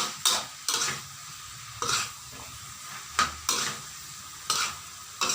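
Spatula scraping and stirring a curry mixture in a frying pan, about eight sharp scrapes over a steady sizzle of food frying in oil.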